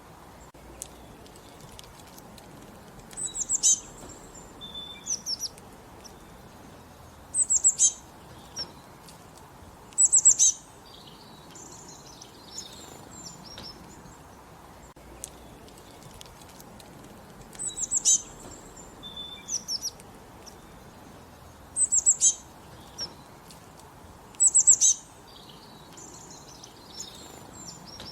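Small songbirds singing in the countryside: short, high-pitched phrases of quick falling notes, repeated about half a dozen times every few seconds, with softer chirps between them over a steady faint hiss.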